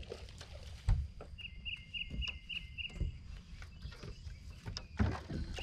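A bird repeating a short high chirp about four or five times a second in one quick run, over scattered knocks and thumps from movement on a boat deck; a sharp knock about a second in is the loudest sound.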